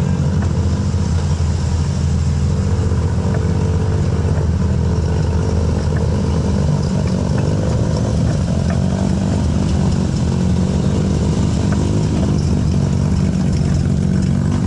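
A car engine idling steadily, with a loud, low exhaust sound that holds level throughout.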